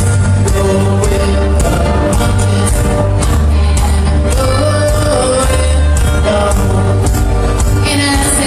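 Band playing a song live, with singing over a heavy bass line and a steady drum beat.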